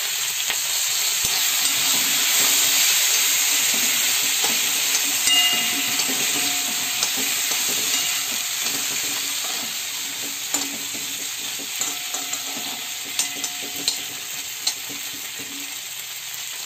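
Drumstick (moringa) pieces and green chillies frying in hot oil in a wok, giving a steady sizzle as they are stirred. The sizzle eases slightly in the second half, where a few sharp clicks come through.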